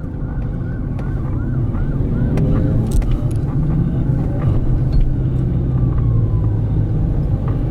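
Steady low car engine and road rumble. Over it a faint police siren yelps in quick repeated rises for the first few seconds, then slowly falls and rises near the end.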